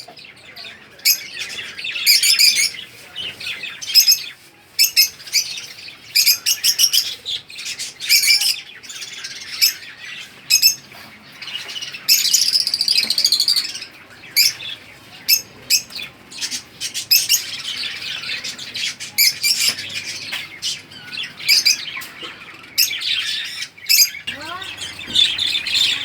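Flock of lovebirds and budgerigars chirping and squawking, with many short, shrill calls overlapping and repeating in quick bursts.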